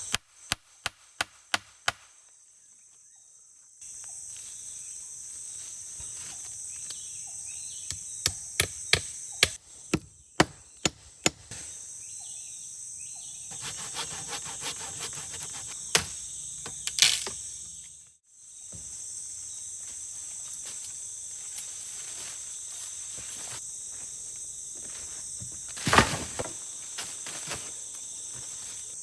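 Wood being struck, sharp knocks in two quick runs, one right at the start and one about eight to eleven seconds in, with a few single knocks between. Under them is a steady high-pitched trilling of forest insects.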